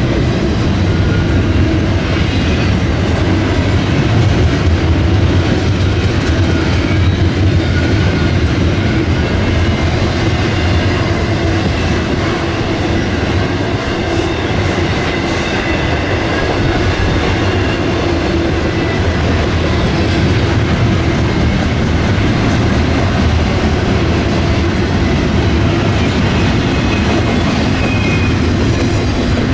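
Freight train cars rolling past at trackside: a steady rumble of steel wheels on the rails, with some clatter.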